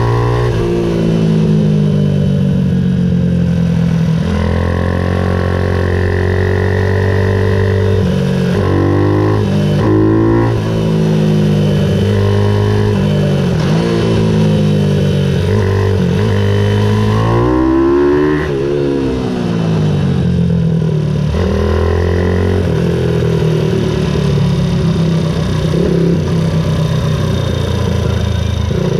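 Ohvale 110 minibike's single-cylinder four-stroke engine racing on track, revving up through the gears and dropping off sharply for corners, over and over.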